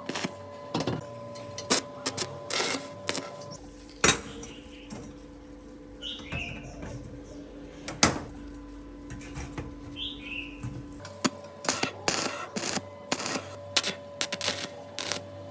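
Rapid, irregular clicks and knocks of work on metal generator parts, over a steady hum. The run of clicks thins out in the middle to two sharp single knocks and two short chirps, then picks up again.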